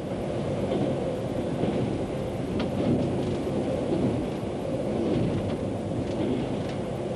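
Train running along the track, heard from inside the driver's cab: a steady low rumble with a few faint clicks from the rails.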